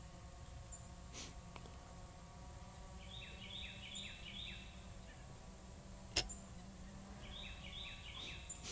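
A small songbird sings a quick run of descending chirps twice, about five seconds apart, over a low outdoor rumble. A sharp click about six seconds in is the loudest moment.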